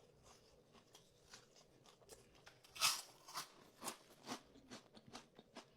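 Someone bites into crunchy food about three seconds in, then chews it with a run of crisp crunches, roughly two a second.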